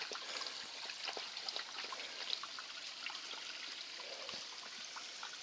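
Water of Mina Sauk Falls trickling and running over rock: a steady, soft hiss with scattered small ticks.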